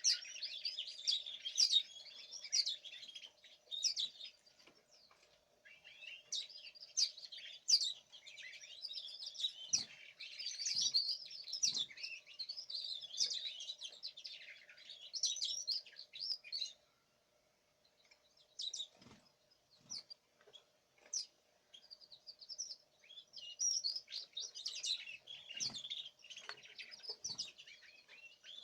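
Caged songbirds chirping and twittering in quick, high-pitched runs, with a short lull about two-thirds of the way through. A few soft thumps and a faint steady hum lie underneath.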